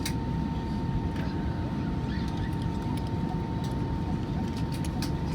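Airbus A320 cabin noise on the ground after landing: a steady low rumble of the engines and air systems, with a thin steady whine and a few faint clicks.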